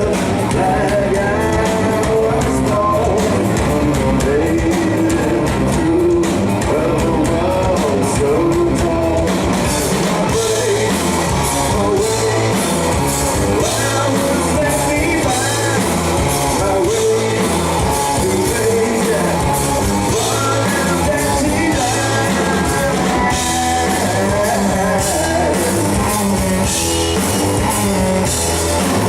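Live rock trio playing at a steady loud level, with guitar, drum kit and a sung vocal line.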